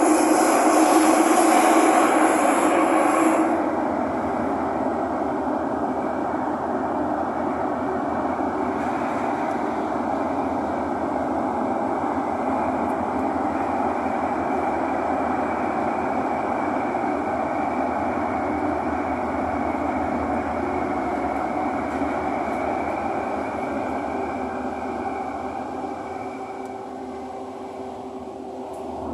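Interior noise of a Thomson-East Coast Line metro train running between stations. For the first few seconds there is a louder hiss; after that comes a steady rumble with a thin high whine, which fades and grows quieter near the end.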